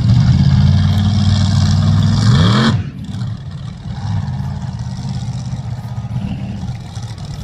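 Monster truck engine running loud, rising in pitch as it revs, then cutting off abruptly about three seconds in. A quieter engine drone carries on after it.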